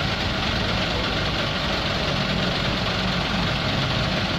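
Truck crane's engine running steadily.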